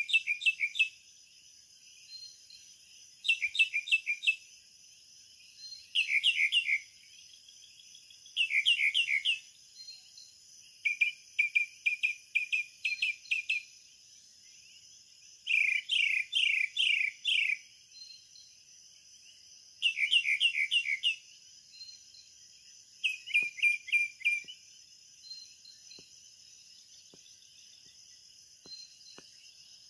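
A bird sings short bursts of rapid chirping notes, repeated every few seconds, with about eight bursts in all. Behind it runs a steady high-pitched buzz of insects.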